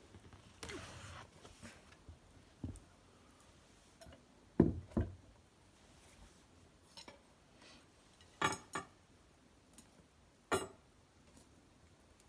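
Scattered knocks and clinks of fire tending at an irori hearth burning cedar branches: two dull thuds about halfway through, then three sharper clinks near the end.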